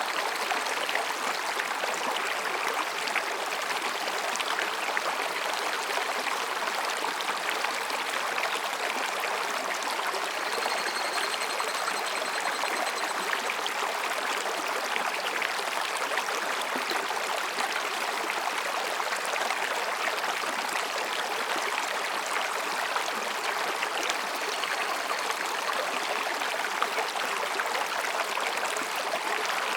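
Mountain stream babbling and rushing over rocks in a steady, unbroken flow. About ten seconds in, a faint high-pitched higurashi (evening cicada) call sounds for about three seconds.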